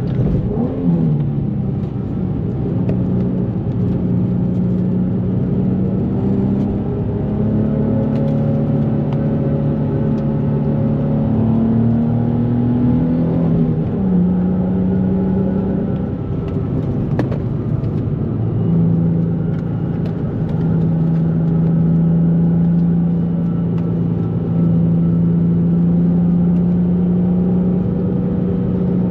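2004 Nissan 350Z's 3.5-litre V6 running under way through the gears. The engine note falls sharply about a second in, climbs and then drops again about halfway through at a shift, and holds steady near the end.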